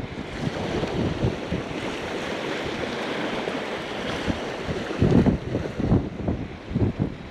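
Gusty wind buffeting the microphone over the steady wash of ocean surf, with the buffeting growing stronger a little past halfway.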